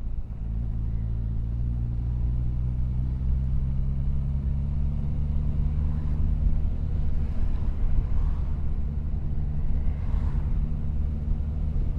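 Motorcycle engine running under way, its note rising a little over the first few seconds and then holding steady at cruising speed, over a low road rumble.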